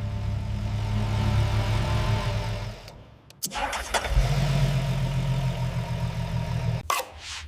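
Mercedes-AMG G-Class (Brabus G800) engine running at idle with a steady low drone. It fades out a little under three seconds in, and after a brief gap it runs again before breaking off near the end into a few sharp clicks.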